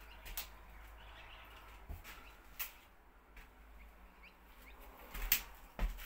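Quiet bushland ambience with faint bird chirps, broken by a few sharp clicks and knocks, the loudest two near the end.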